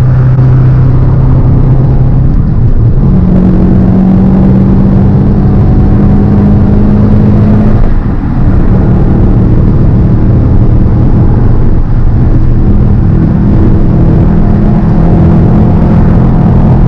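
Subaru flat-four boxer engine running loud while the car is driven, heard close up from the cabin. The engine note steps up about three seconds in and climbs slowly, drops abruptly about eight seconds in as with a gear change, then climbs again near the end.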